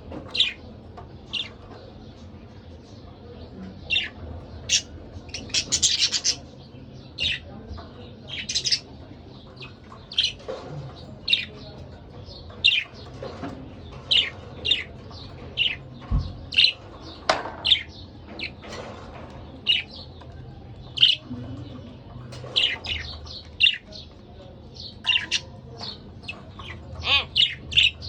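Pet budgerigars chirping: many short, sharp chirps at irregular intervals, one or two a second, over a low steady hum.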